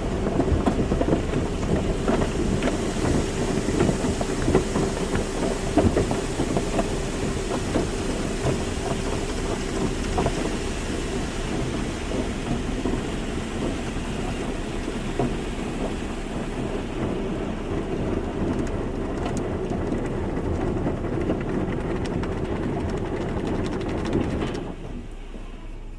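Automatic car wash running: water spray and brushes drumming on a car, dense and steady, with a machine hum for the first ten seconds or so. The sound drops off abruptly near the end.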